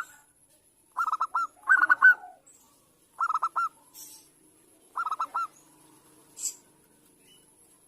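Zebra dove (Bangkok perkutut) singing: four short phrases of three or four quick, rolling coo notes, about a second or so apart. A brief higher-pitched call sounds near the end, with a faint low hum underneath.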